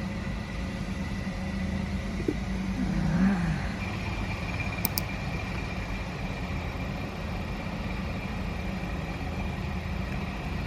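Steady low rumble of a running vehicle, with a brief louder swell about three seconds in.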